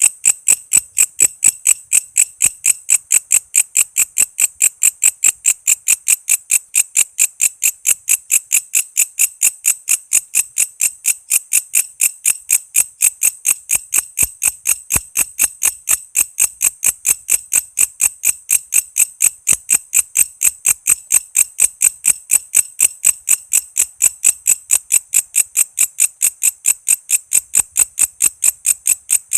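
Walang kece, a singing katydid, calling: a loud, steady train of sharp, high-pitched chirps at about three a second.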